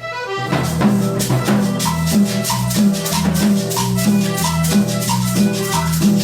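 Vallenato band music: a melodic lead line is joined about half a second in by a bass line and a fast, steady rattling percussion rhythm.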